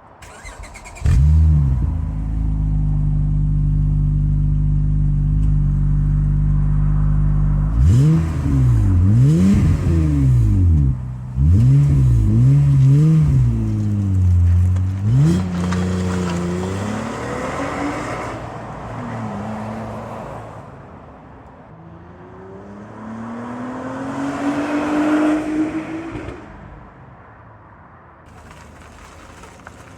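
Acura TL V6 with an ATLP cat-back exhaust starting up about a second in, then idling steadily. Several quick revs follow, then the note drops back, and near the end a rising engine note builds and fades away.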